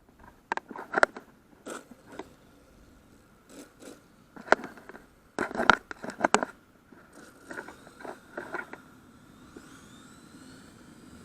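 Irregular clicks, knocks and scrapes of handling, loudest around the middle. From about seven seconds on a faint steady high hiss sets in, with faint rising tones near the end.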